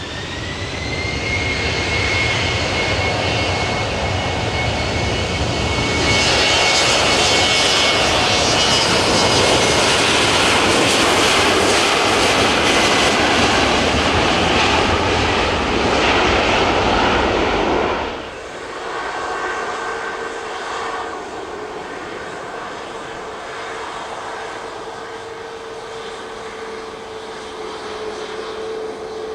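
Jet airliner engines running loud, a steady high whine over a heavy rush. About 18 seconds in the sound drops suddenly to a quieter engine hum with a lower steady tone.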